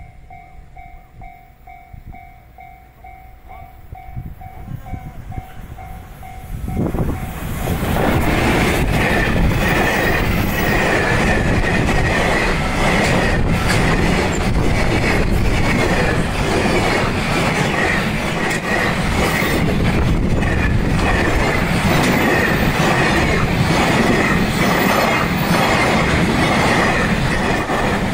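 JR Freight EF210 electric locomotive and its Koki container flatcars passing close by. First a faint, evenly pulsing tone, then about seven seconds in the train arrives with a loud, steady rumble and wheel clatter, with a high squeal running through it from the wheels on the curve.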